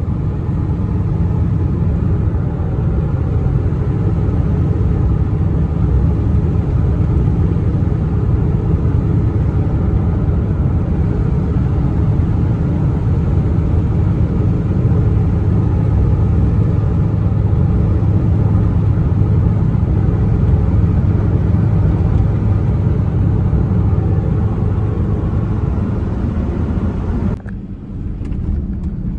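1996 Toyota Tacoma pickup driving, its engine and road noise running steadily, with strong low rumble. About 27 seconds in the sound drops and changes abruptly, then carries on.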